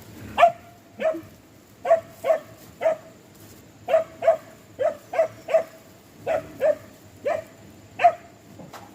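A dog barking repeatedly, about fourteen short, sharp barks at an uneven pace.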